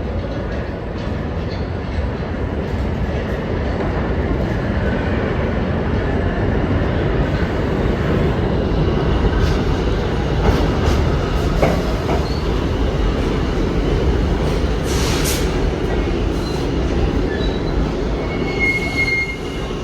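New York City subway train running through the station: a steady rumble of wheels on rail, with high-pitched wheel squeals near the end.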